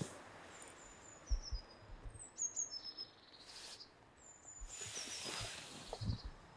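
Small birds chirping in short, high, falling phrases several times over. Low thumps and a gust of wind noise on the microphone underneath.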